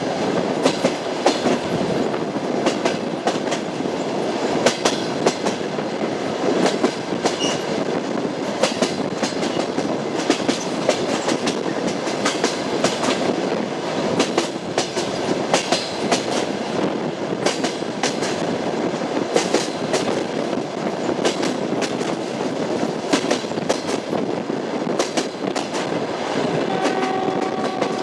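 A moving train, its wheels clattering over the rail joints: an irregular clickety-clack over a steady rumble. A brief steady tone sounds about a second before the end.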